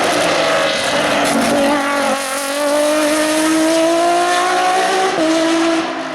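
Hill-climb race car engine at full throttle, its pitch climbing steadily. It drops sharply at an upshift about five seconds in, then the sound fades near the end as the car pulls away.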